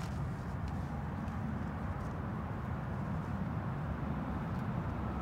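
Low, steady rumble of a distant electric multiple unit train approaching a station platform, with no horn or brake squeal.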